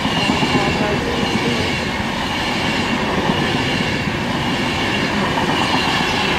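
Class 390 Pendolino electric train passing close by at low speed: a steady rumble of wheels on the rails, with a faint, steady high whine over it.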